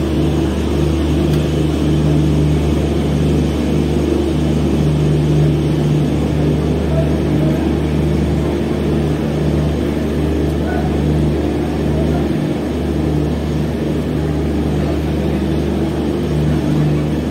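Steady droning hum of a passenger train heard from inside the coach as it rolls slowly along the platform.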